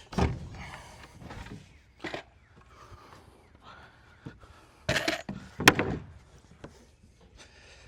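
Knocks and thumps on wooden deck boards as a stuck board is worked loose or forced into place: a few single knocks, then a group of sharper ones about five to six seconds in, the loudest near six seconds.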